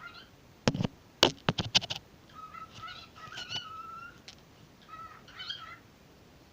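Pet bird calling in short warbling chirps over a steady note, two phrases in the second half, with a quick run of sharp clicks or taps about a second in.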